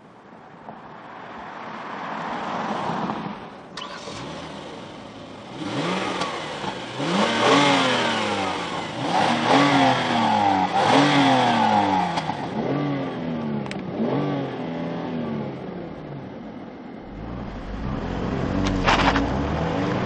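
2014 Kia Cadenza's 3.3-litre V6 revved about six times in quick succession, each rev rising and falling in pitch, with a click a few seconds in and a low rumble near the end.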